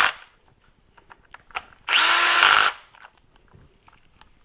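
Cordless drill/driver running a cover bolt down, one burst of under a second about two seconds in that spins up and then holds steady, between light clicks of tools and parts.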